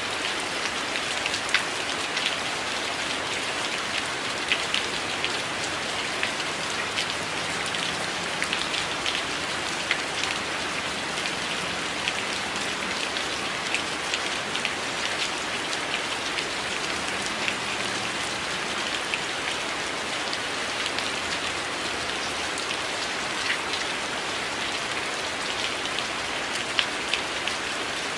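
Steady rain falling on a window, a continuous even patter with many close, sharp drop ticks scattered throughout.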